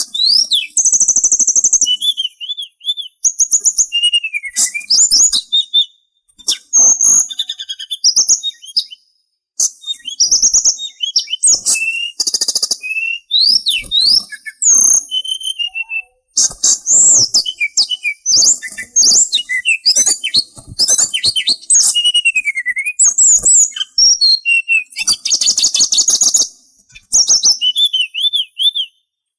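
Sulingan songbird singing a long, varied stream of high whistles, rising and falling slurred notes and fast trills, broken by short pauses.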